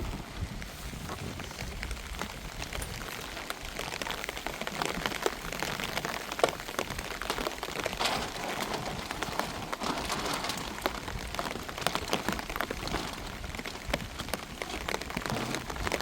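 Steady rain falling, with many separate drops striking close by as sharp ticks over a constant hiss.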